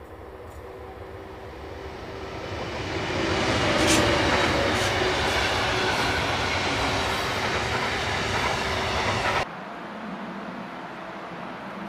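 Electric-hauled intermodal freight train approaching and passing close by: the rumble of the wagons on the rails grows louder over the first four seconds and stays loud, with a few sharp clicks from the wheels. About nine and a half seconds in it cuts off abruptly to a quieter steady rushing noise.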